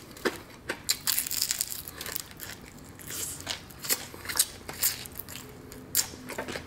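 Close-up crunching of crispy fried-chicken batter crust being chewed: a run of irregular sharp crackles and crunches.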